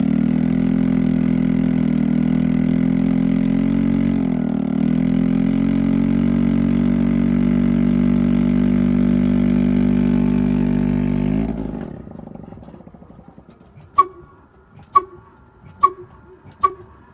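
Engine running steadily at constant speed, cutting out about twelve seconds in. After a short lull come sharp metallic clanks with a ringing tone, a little under one a second.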